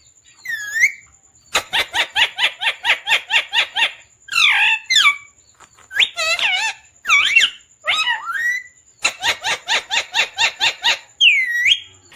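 Pet talking parrot calling: runs of short repeated squawks, about five a second, between longer calls that swoop up and down in pitch.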